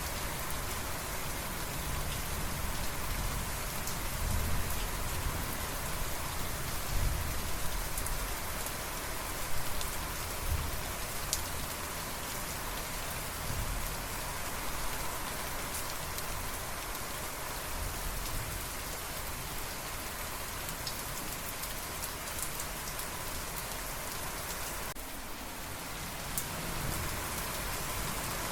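Steady rain falling, with individual drops striking sharply close by and a low rumble that rises and falls. About 25 seconds in, the rain's high hiss thins abruptly.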